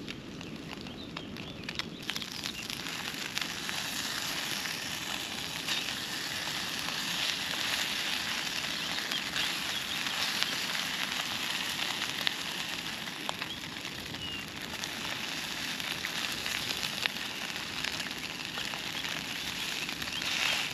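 Matzo brei frying in a pan over a gas camping stove: a steady sizzle with many small crackles, a little louder in the middle.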